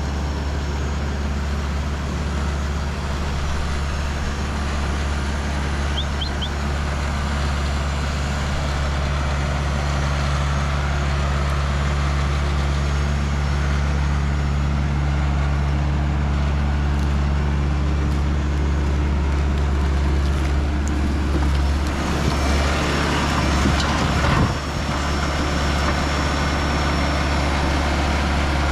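Tractor engine running steadily at an even speed. About 22 seconds in a louder, rougher stretch of noise rises over it for a couple of seconds and cuts off suddenly.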